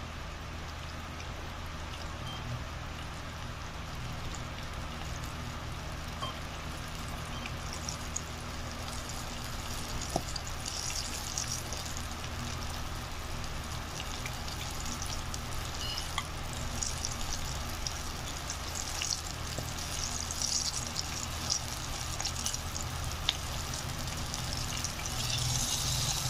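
Flour-coated chicken pieces frying in hot oil in a small electric cooking pot: a steady sizzle with scattered small crackles and pops, growing brighter and livelier about eight seconds in. A steady low hum runs underneath.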